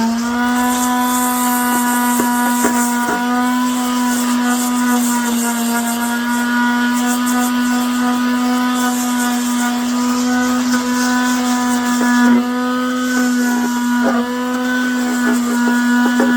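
Small electric power tool's motor running at a steady speed with a high hum, with scratchy grinding noise and small clicks over it as it works the plastic.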